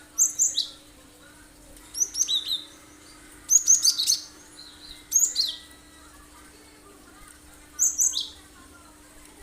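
Cinereous tit (gelatik batu) singing sharp, rapid chirping notes. The song comes in five short bursts, each note sweeping down in pitch, with a second or two of pause between bursts.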